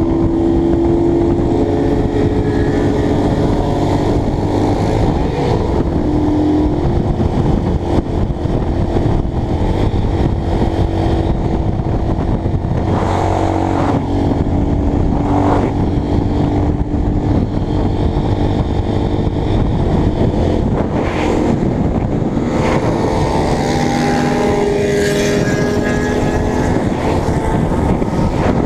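Motorcycle engine running while riding, its pitch rising and falling several times as the revs change, over steady wind noise on the helmet microphone. The bike is plausibly a Honda CBX 250 Twister, a single-cylinder four-stroke.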